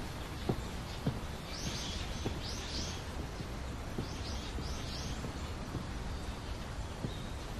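Small birds chirping in two short bursts, about two and about four and a half seconds in, over a steady outdoor background hum, with a few soft footsteps.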